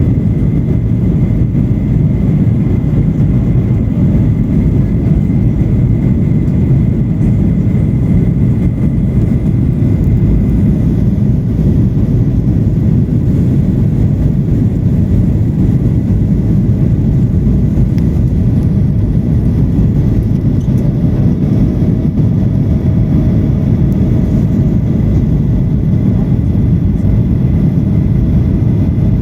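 Boeing 737-800 cabin noise: the steady, loud drone of the engines and airflow heard from inside the cabin, with a faint steady whine above it.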